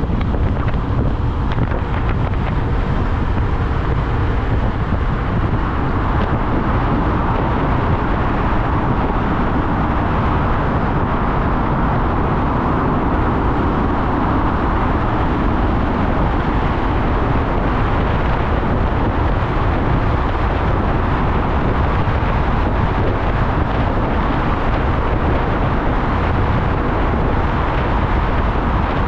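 A motorcycle under way at a steady pace: engine and road noise mixed with steady wind noise on the microphone.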